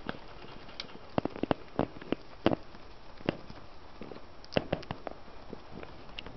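Budgies feeding: an irregular scatter of sharp clicks and taps from beaks pecking at and cracking food, with a quick cluster of louder clicks about four and a half seconds in.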